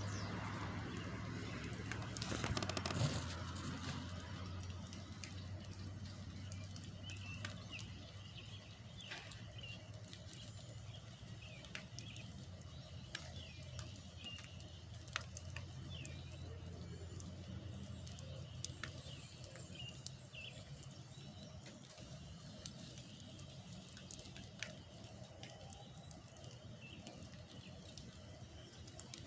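Small birds chirping repeatedly over a low engine hum that fades away, with a louder noisy surge about three seconds in.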